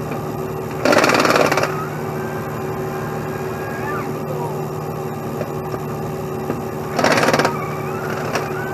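Truck engine running steadily, with two short, loud bursts of hiss: one about a second in and a shorter one near the end.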